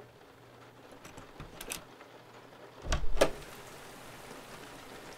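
Steady faint rain in the background, with a few light clicks and taps and then a heavier thump with clicks about three seconds in, like a door or handle being worked.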